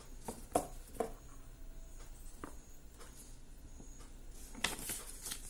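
Paper booklets and cardboard being handled: a few soft rustles and light taps.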